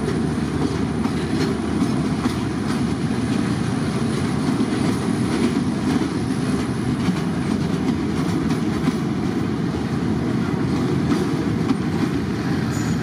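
Container freight train rolling past: a steady rumble of steel wheels on the rails, with faint irregular clicks as the wagons cross the rail joints.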